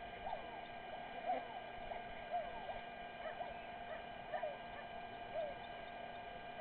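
Birds calling in short chirps, one or two a second, over a steady electrical hum.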